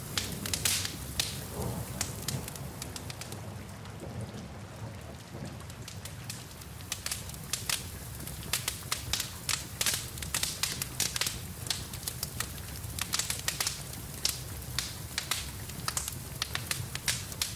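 Wood fire crackling with sharp pops over a low steady rumble of flames, with a soft hiss of rain mixed in. The pops are sparse for the first several seconds, then come thick and fast.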